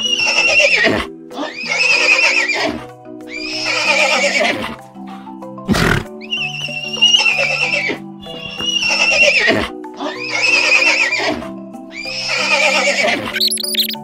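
A horse whinnying again and again, one call about every two seconds, over background music with a steady melody. There is a single sharp click about six seconds in.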